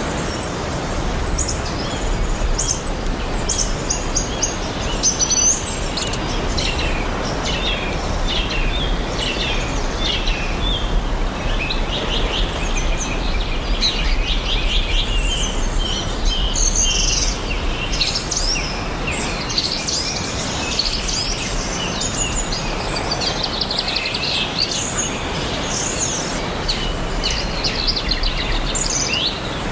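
Several birds singing and chirping over one another with quick trills and short notes, over a steady background hiss of outdoor ambience.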